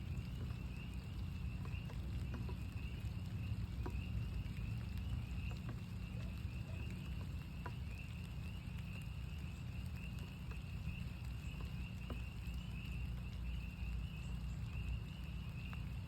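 A chorus of northern spring peepers: many short, high peeps overlapping into a continuous shrill band. Scattered raindrop ticks and a steady low rumble run beneath it.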